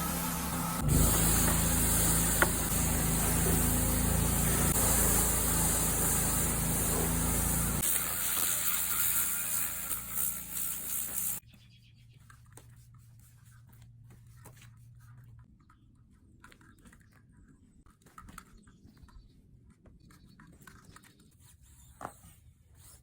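A machine runs steadily, with a loud hiss and a low hum, and cuts off suddenly about eleven seconds in, leaving faint scattered clicks.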